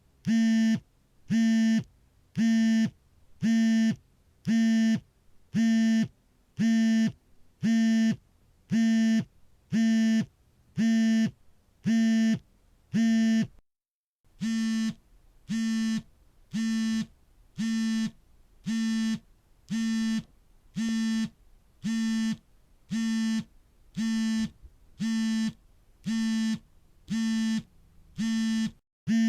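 Smartphone vibration motor buzzing in short pulses, one a little faster than every second, each a steady low buzz with a rattling edge, as the phone vibrates for an incoming call. The pattern breaks off in a brief silence about halfway through and then resumes.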